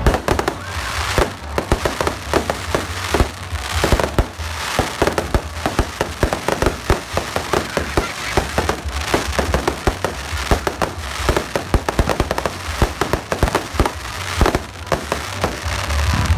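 Fireworks going off in a dense, continuous crackle: many sharp cracks and pops each second, coming unevenly.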